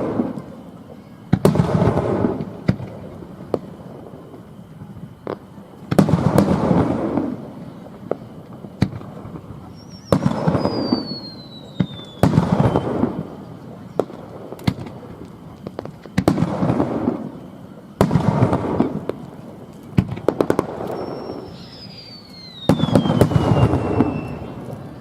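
Aerial firework shells bursting every two to four seconds, each sudden bang trailing off in a rumble over a second or two. Twice, a high whistle glides down in pitch.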